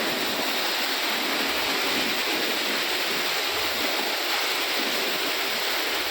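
Steady hiss of water spraying, the even rush of a car wash spray.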